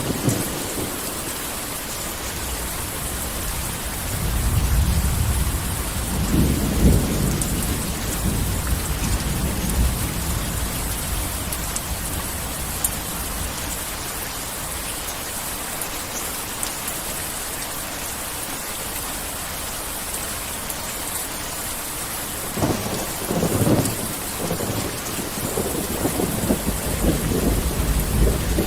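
Heavy rain falling steadily, with rolling thunder rumbling about a quarter of the way in and again over the last few seconds.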